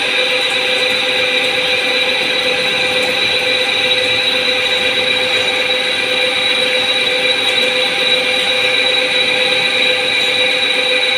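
Lathe running while turning a shaft: a steady machining noise with several constant whining tones, unchanging throughout.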